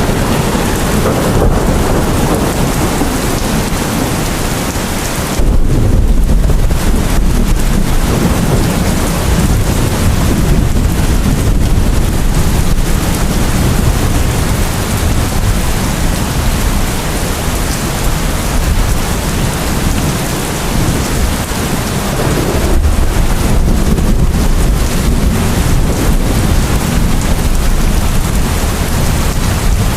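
Steady heavy rain with rolling thunder. Low rumbles swell about five seconds in and again about 23 seconds in.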